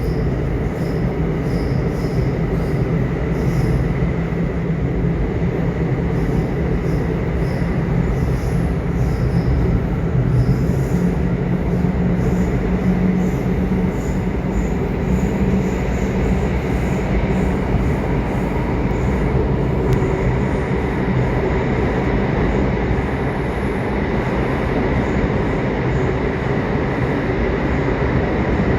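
Subway train running, a steady low rumble of wheels on track with a thin, steady high whine over it.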